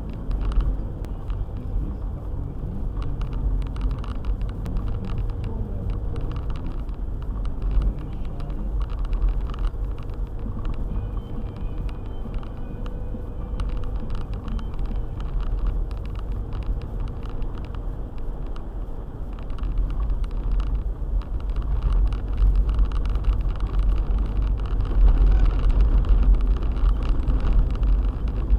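Car driving on a snowy road: a steady low rumble of engine and tyres with a fast crackle of fine ticks, growing louder over the last several seconds.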